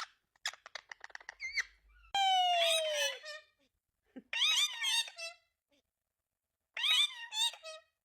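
Pet parrot vocalising: a quick run of clicks, then a long call falling in pitch, then two bursts of shrill, squeaky chatter.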